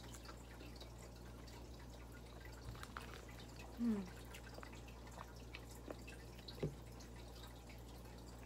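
Faint close-up eating sounds: small wet clicks of chewing and lip smacks from a person eating fried fish and rice by hand, with one short falling hum about four seconds in.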